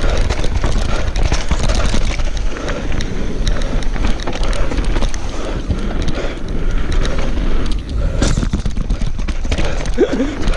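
Downhill mountain bike descending a rough trail at speed: wind buffeting the microphone over tyre roar on dirt, with constant rattling and clattering of chain and frame over bumps.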